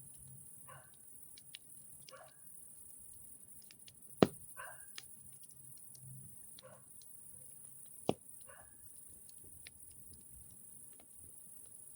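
Campfire crackling with scattered faint ticks, and two sharp loud pops about four seconds apart. A short, faint sound recurs about every two seconds in the background.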